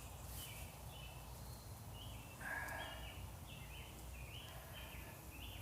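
A bird calling over and over, short falling notes about two a second, over a low steady outdoor rumble.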